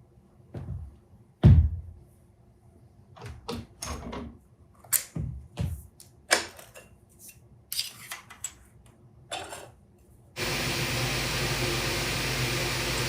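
Irregular knocks and clatters of tools and small metal parts being handled at a milling machine, the loudest about a second and a half in. About ten seconds in, a steady machine noise starts suddenly and keeps on.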